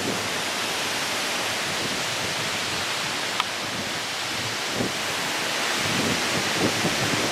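Strong wind blowing in a steady, dense rush, with a single short click about three and a half seconds in.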